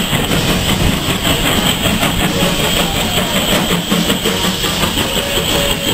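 Passenger coaches of a steam-hauled train rolling slowly past, a steady rumble of wheels on rail, with a faint wheel squeal in the second half.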